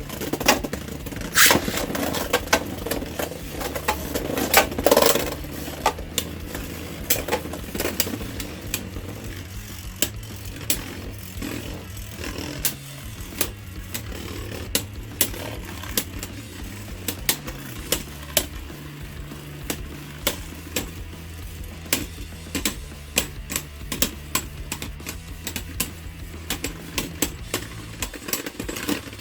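Two Beyblade Burst spinning tops, Storm Pegasis and Lightning L-Drago, whirring and clashing in a stadium: many sharp clicking hits throughout, densest and noisiest in the first few seconds. Background music with a low, stepping bass line plays underneath.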